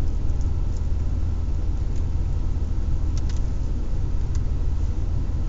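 Steady low rumble of a car idling, heard from inside the cabin, with a few faint ticks.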